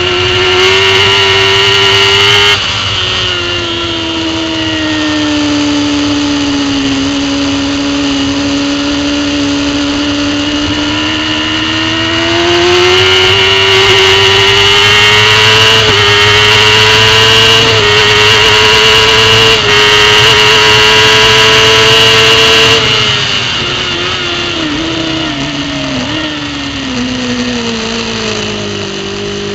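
Racing superbike engine at high revs, heard from a camera mounted on the bike. The note drops sharply about two seconds in, then climbs and runs loud through the middle. Near the end it falls in several quick steps, typical of downshifts into a corner.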